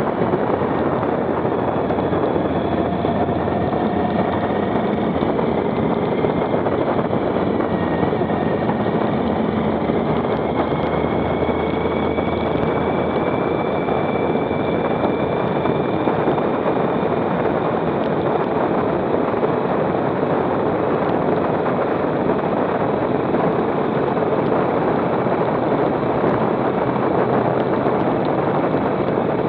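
Motorcycle being ridden at road speed: a steady rush of wind on the microphone over the running engine, whose note drifts slowly up and down.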